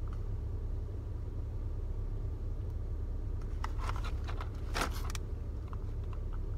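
Steady low hum of a car idling, heard inside the cabin. Around the middle come a handful of short clicks and knocks as cardboard fast-food boxes are handled.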